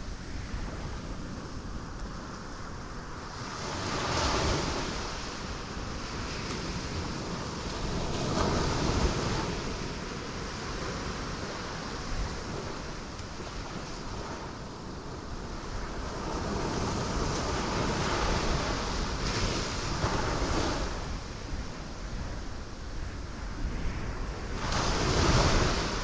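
Ocean waves breaking on rocks, a steady wash of surf that swells into a crash every few seconds, with the loudest crash near the end.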